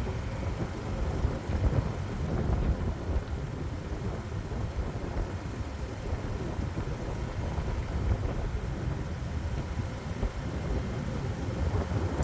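Wind buffeting the microphone over vehicle road noise: a steady low rumble that wavers in loudness.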